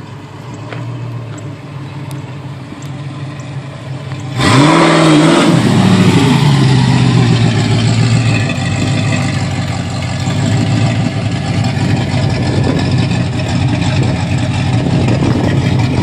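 1995 Chevrolet Corvette C4's V8, fitted with aftermarket heads and cam and not yet tuned, idling. It is quieter at first, then loud from about four seconds in, with one quick rev that rises and falls before it settles back to a steady idle.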